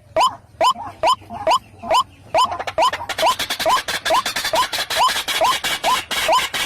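White-breasted waterhen calling its repeated 'ruak' note, about two notes a second, each sliding sharply upward. From about three seconds in, a denser noisy layer sounds behind the calls.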